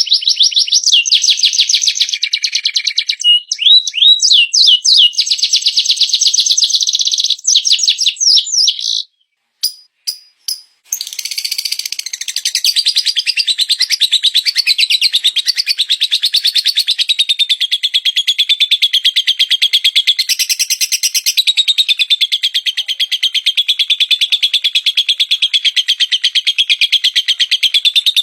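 Recorded songbird song, loud and fast: dense rapid trilling with a few quick rising notes, a short break with a few clicks about nine seconds in, then one long unbroken fast trill that wavers slightly in pitch.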